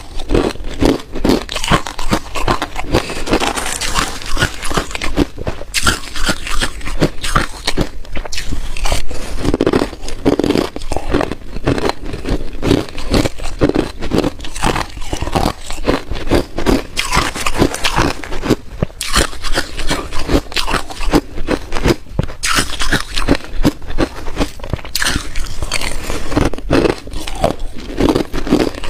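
Ice cubes being bitten and chewed close to the microphone: a dense, irregular run of sharp crunches and cracks that goes on without a break.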